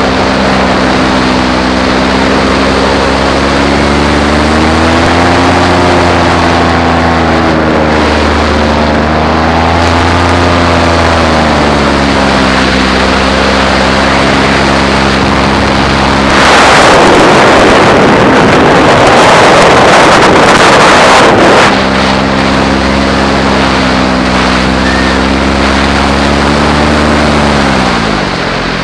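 Paramotor engine running in flight, its pitch rising and falling slowly with the throttle. For about five seconds past the middle a loud rush of wind noise on the microphone drowns it.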